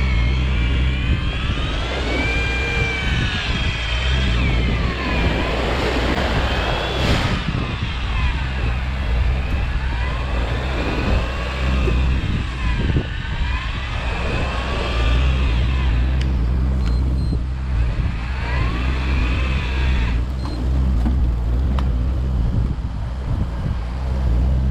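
Fishing boat's engine droning steadily, under an electric fishing reel's motor whining as it winds in line. The whine rises and falls in pitch again and again as the load changes. A single sharp knock comes about seven seconds in.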